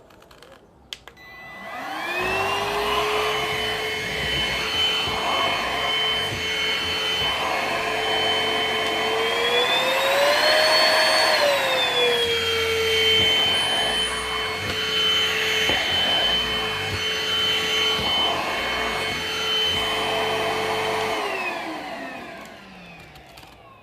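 Cordless stick vacuum cleaner's motor switched on with a click, spinning up into a steady high whine with a rush of air. Its pitch rises for a second or two about halfway through and settles back, then it is switched off and winds down near the end.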